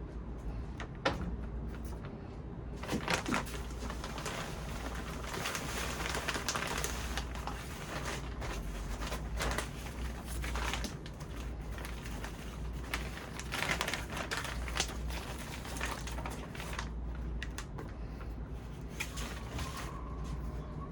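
Plant handling during repotting: rustling and crackling with many small clicks and taps, busiest through the middle, over a steady low hum.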